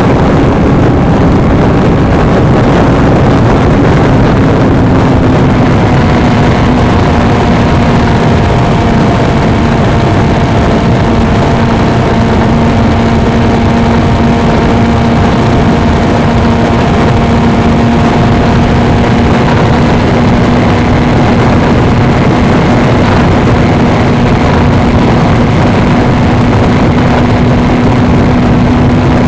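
Suzuki V-Strom 250's parallel-twin engine running at a steady cruising speed on the road, its pitch easing slightly lower about five seconds in and then holding, under heavy wind rush on the helmet or bike camera's microphone.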